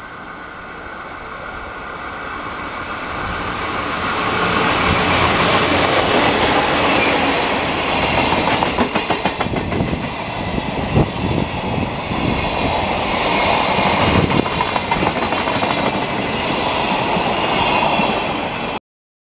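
DD51 diesel-hydraulic locomotive hauling ten Chiki flat wagons past at speed: the sound grows louder over the first few seconds as it approaches, then the wagons' wheels clatter in a rapid rhythm over the rail joints. The sound cuts off suddenly near the end.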